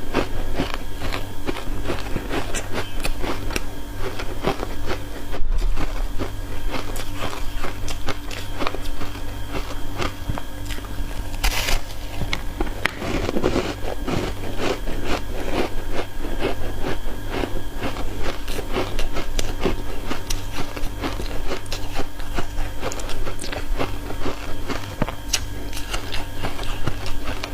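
Close-miked crunching and biting of ice coated in matcha powder, a dense, irregular crackle that keeps on throughout, over a steady low hum.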